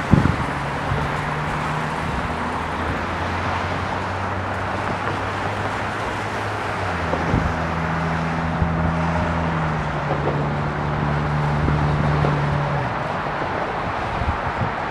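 Steady engine hum under a wide hiss of outdoor noise. The low drone changes pitch about halfway through and fades near the end.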